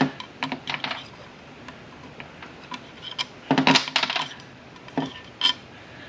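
Metal tools and parts clinking and tapping against a manual transmission shift tower as a part is worked loose. There are scattered light clicks, a louder run of clinks about midway, and a couple of single clinks near the end.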